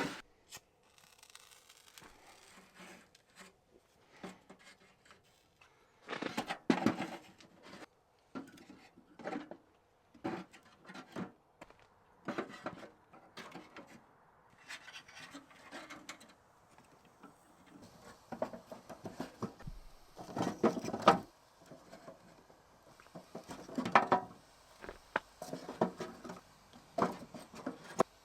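Firewood being handled while lighting a wood stove: irregular knocks, scrapes and clattering of wood pieces, in bursts with short pauses between.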